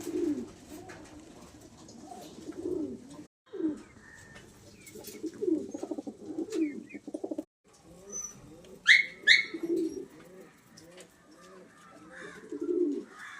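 Pigeons cooing over and over in low rolling calls. About two-thirds of the way through, two short, sharp rising chirps from a bird sound out above them.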